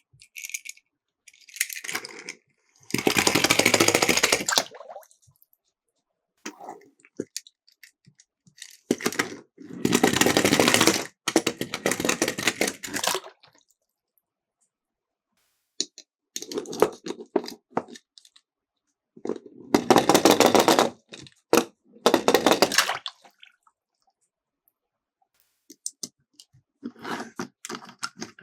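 Miniature toy cars rolling and clattering down a plastic slope: about half a dozen runs of fast rattling, each a second or two long, with small clicks and knocks between.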